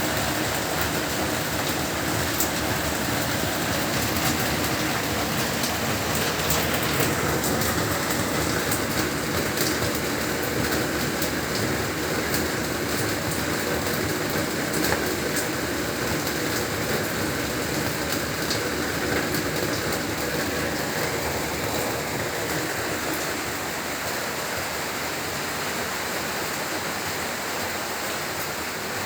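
Heavy rain falling steadily: a dense, even hiss with scattered drops ticking on surfaces.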